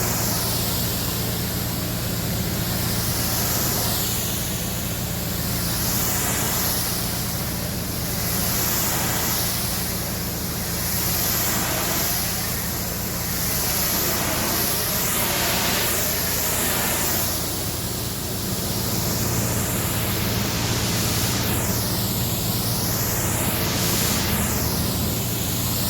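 High-pressure washer spraying water against a truck, a steady hiss that swells and shifts every couple of seconds as the nozzle sweeps, over a constant low hum from the washer's pump motor.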